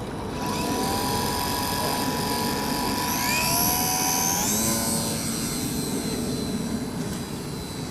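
The electric motor and propeller of a Hobbyzone Super Cub RC plane whine steadily over a rushing noise, rising in pitch about three to four seconds in as the motor speeds up.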